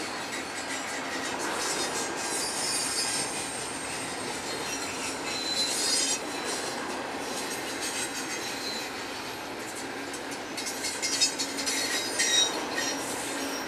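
Double-stack container well cars of a freight train rolling past: a steady wheel-on-rail rumble and clatter, with short high-pitched wheel squeals and a cluster of sharp clanks near the end.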